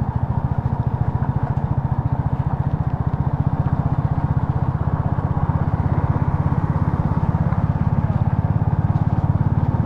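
Motorcycle engine running steadily, with an even, rapid pulsing exhaust beat.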